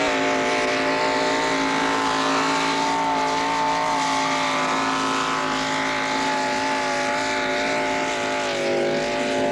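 Tractor engine running flat out under heavy load while pulling a weighted sled, its note held steady at high revs. The pitch sags briefly near the end.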